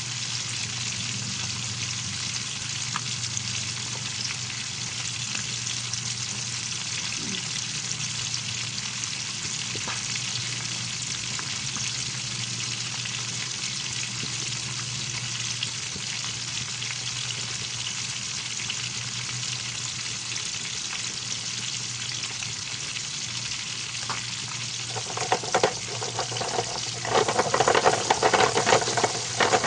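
Milkfish frying in hot oil, a steady sizzle with a low hum beneath it. About 25 seconds in, louder irregular clattering and crackling starts, as of a utensil working in the pan.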